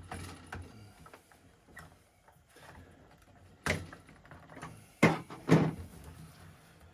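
Handling clicks, then sharp knocks: one a little past halfway and two close together near the end, as a retaining pin is worked out of an Airmaks Caiman X air rifle during disassembly.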